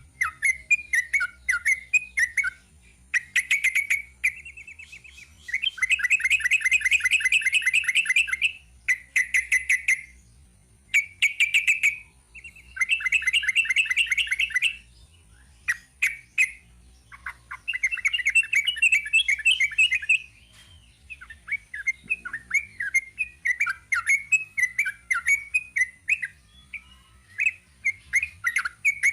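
Yellow-vented bulbul (trucukan) singing a long, rapid chattering song. Bursts of quick notes alternate with several fast, dense trilled runs lasting two to three seconds each.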